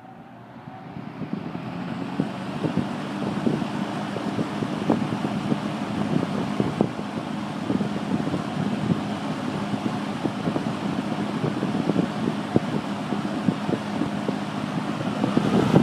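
Electric fan set to high, spinning up over the first two seconds and then running steadily with a low hum. Its air stream buffets the microphone in irregular gusts.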